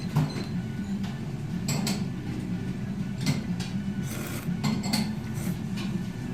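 Dishes and cutlery clinking now and then, a few sharp clinks spread through, over a steady low hum.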